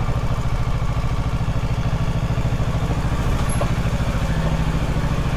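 Kawasaki Ninja 650's parallel-twin engine idling steadily at an even, unchanging pitch.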